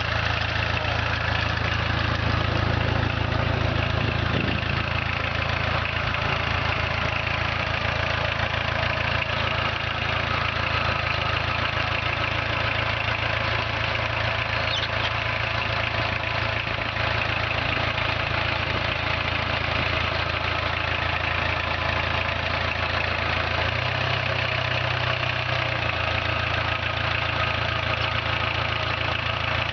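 Volkswagen 1.6 litre four-cylinder diesel engine in a small homemade tractor, idling steadily; about three-quarters of the way through, its low hum changes in pitch.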